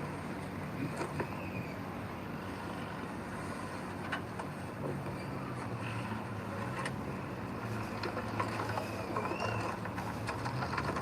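A heavy earthmoving machine's diesel engine running steadily, with scattered clanks and a couple of short squeals.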